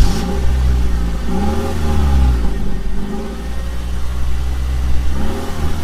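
A Toyota car's engine catching as it is started with the key, then running at idle, its revs rising and falling about a second and a half in and again near the end.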